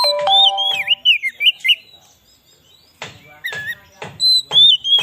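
Oriental magpie-robin (kacer) singing: a quick run of varied whistled notes gliding up and down, mixed with short harsh rasping notes. The song breaks off about two seconds in and starts again a second later.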